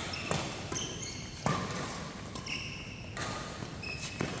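Badminton rally in a doubles match: a few sharp racket-on-shuttlecock smacks spaced a second or more apart, with short high-pitched squeaks of shoes on the court floor between them.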